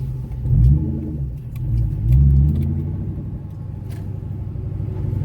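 Car engine running under the occupants, with two rising surges of acceleration: one about half a second in and one about two seconds in.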